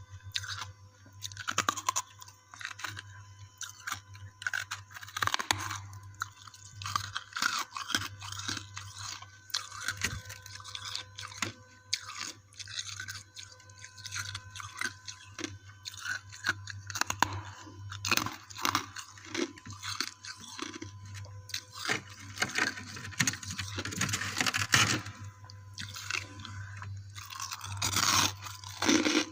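Close-up chewing of frosty ice chunks: irregular crunching and crackling, with short squeaky crunches as the frost compresses between the teeth.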